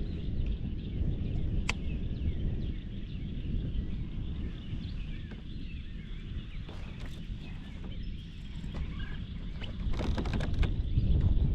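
Outdoor ambience on open water: a steady low rumble of wind on the microphone, with many small birds chirping faintly throughout and a few sharp clicks.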